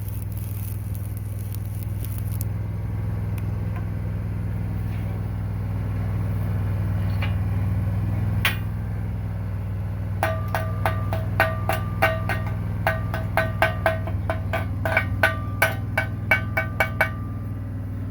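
Stick-welding arc crackling and stopping about two seconds in, then a chipping hammer striking the fresh weld over and over, two or three ringing metal hits a second, to knock off the slag. An engine runs steadily underneath.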